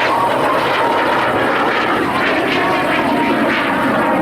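Steady jet engine noise from Canadian Snowbirds CT-114 Tutor jets flying their formation display.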